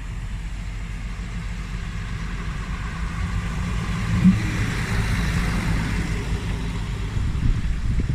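Diesel train engine running with a steady low hum that grows slowly louder, a rushing noise swelling in the middle.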